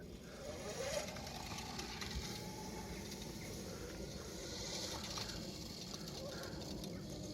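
Faint whine of a homemade 72-volt, 3000-watt electric dirt bike's motor as it rides, rising in pitch under a second in, over steady outdoor noise.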